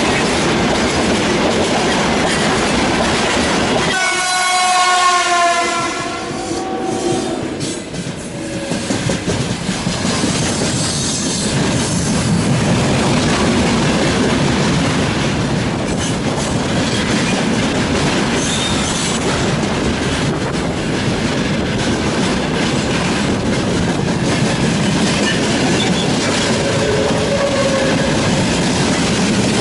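A freight train rolling past, with a steady loud rumble and clatter of wagon wheels on the rails. About four seconds in, an electric locomotive's horn sounds once for about two seconds over the noise.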